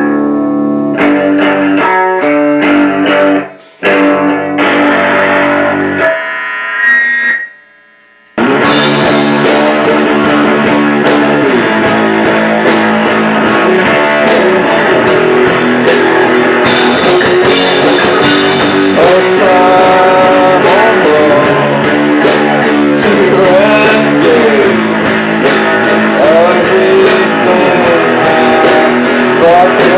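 Live rock band playing: a clean electric guitar figure alone for the first eight seconds, then, after a brief pause, the full band comes in with distorted guitars and drum kit.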